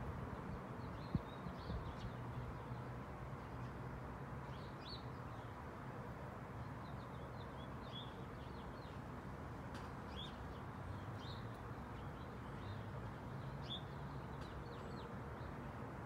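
Small birds chirping in short, scattered calls over a steady low background rumble of outdoor noise, with one sharp click about a second in.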